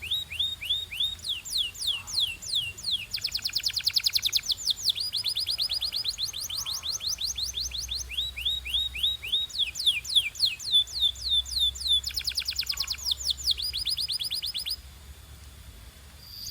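Domestic canary singing: trills of rapidly repeated down-slurred whistles, switching to a new speed and pitch every second or two, stopping shortly before the end.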